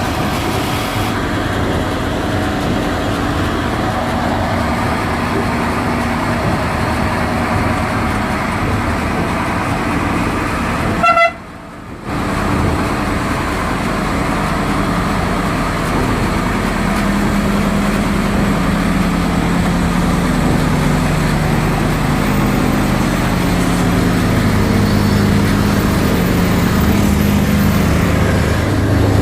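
Vehicle running, with a short horn toot about eleven seconds in. The sound then cuts off abruptly for a moment, and a steady engine hum follows.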